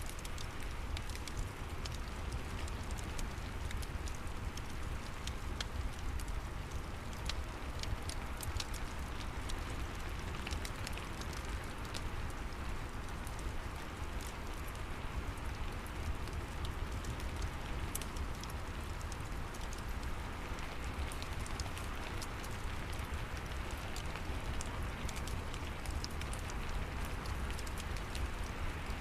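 Steady rain mixed with a crackling fireplace: an even hiss and low rumble with frequent small, sharp clicks and pops.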